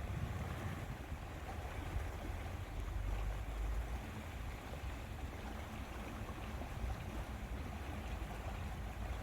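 Steady lakeside ambience: wind rumbling on the microphone over a constant wash of water noise.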